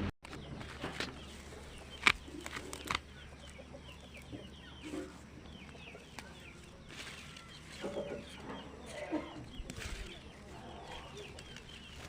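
Birds chirping, many short calls scattered throughout, over a low steady hum, with a few sharp knocks in the first three seconds.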